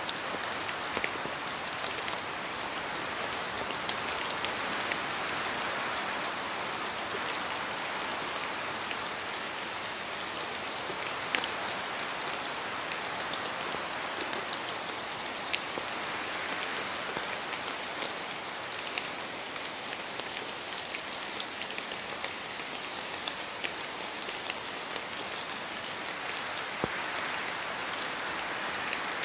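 Steady rain falling, with many scattered sharp drop impacts ticking through it and gentle swells in level.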